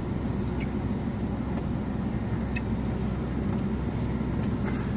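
Heavy truck's diesel engine running steadily under load, labouring up an icy incline, heard from inside the cab.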